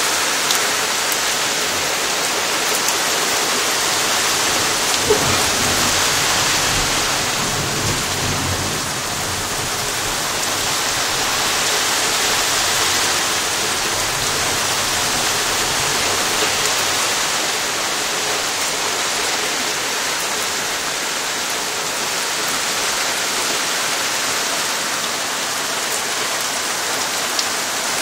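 Heavy summer rain pouring down steadily in a thunderstorm. A low rumble of thunder comes in about five seconds in and fades by about nine seconds.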